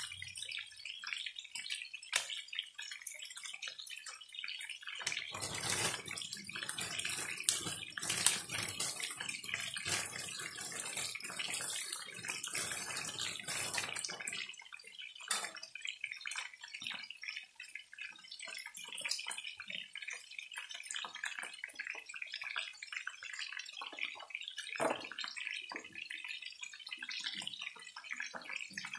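Chicken pieces sizzling in hot oil in a pan, a steady hiss with scattered pops and crackles. From about five seconds in to about fourteen the sound is louder, with a low rumble under it.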